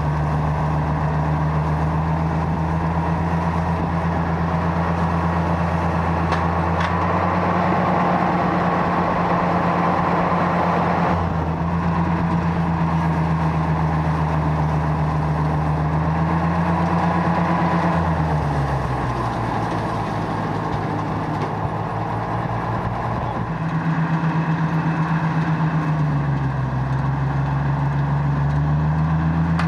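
Tractor engine running steadily at working speed. Its pitch sags for a few seconds just past the middle, picks back up, dips briefly again near the end and then recovers.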